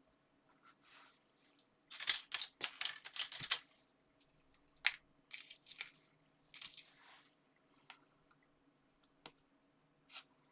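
Paper and card being handled: a dense run of crackling rustles about two seconds in, then scattered light taps and short rustles.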